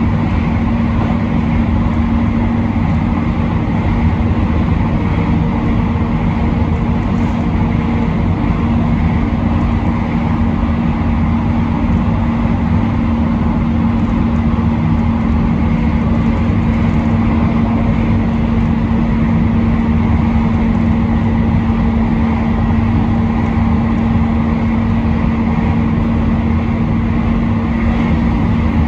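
Electric train running at steady speed: a continuous rumble of wheels on rail with a constant low hum.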